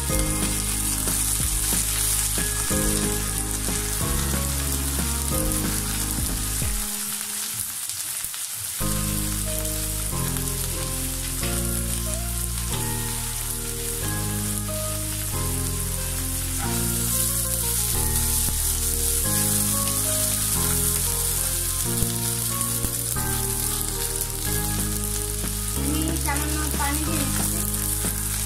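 Sliced onions with ginger and garlic paste frying in hot oil in a nonstick wok: a steady sizzle, with a spatula stirring now and then.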